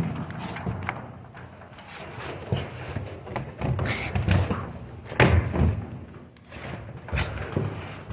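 Scattered thumps and knocks with scuffing, the loudest knock about five seconds in: someone climbing through a tight opening.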